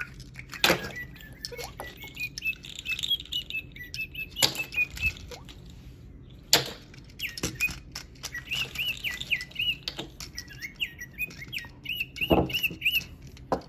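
Small bird chirping and twittering in runs of short, high, repeated notes, the song given to a toy bird, with a few sharp clicks and knocks in between.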